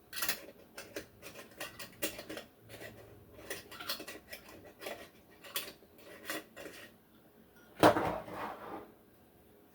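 Measuring spoons and spice jars clinking and knocking while spices are measured out: a run of small clicks and taps, with one louder clatter about eight seconds in.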